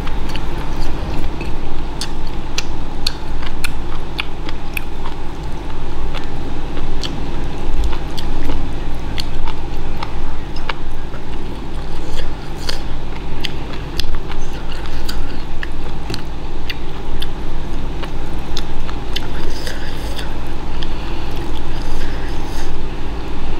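Close-up chewing and mouth smacking while eating a chewy beef dish with rice, with many small sharp clicks scattered throughout, over a steady low hum.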